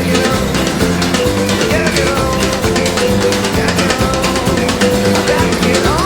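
Rock band music: a drum kit and bass playing a steady groove, with a sliding note rising near the end.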